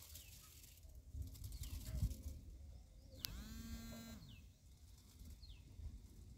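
Quiet outdoor ambience with small birds giving a few short, falling high chirps. There is low rumbling noise in the first half, and a click about three seconds in, followed by a one-second pitched call.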